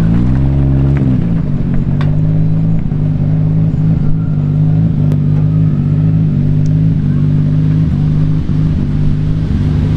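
Toyota 2JZ straight-six in a Nissan S14 drift car running loud under power. Its revs dip and climb back within the first second, then hold at a steady pitch for the rest of the stretch, as when the throttle is held through a drift.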